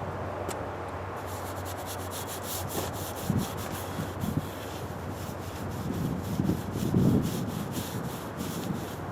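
A brush scrubbing phosphoric acid rust neutraliser onto a sheet-steel tractor fender in repeated short strokes, with gusts of wind rumbling on the microphone.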